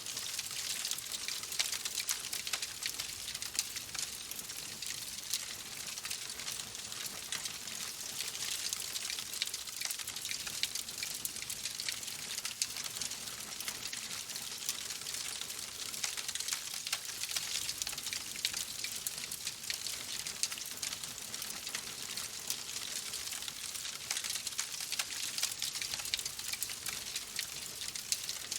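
Wood fire crackling in a fireplace: a steady hiss dense with small sharp pops and snaps.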